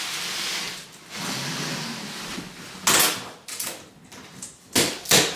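A steady hiss that cuts off about a second in, then several sharp knocks and clatters, the loudest about three and five seconds in.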